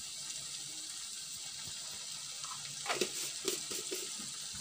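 Steady hiss of a thick quail-egg pepper masala sizzling in an aluminium kadai, with a few short clicks about three seconds in.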